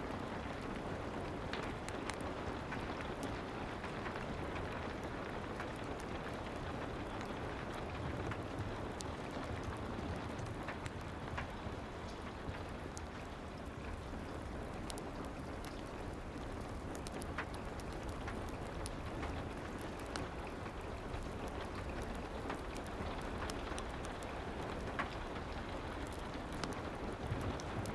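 Soft, steady rain ambience: an even patter with scattered faint sharp ticks.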